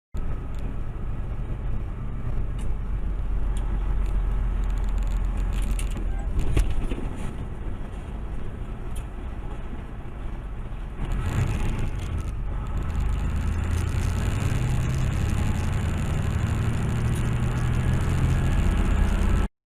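Car driving: a steady low engine and road drone with scattered clicks. Around eleven seconds in there is a short disturbance, after which the drone grows a little louder.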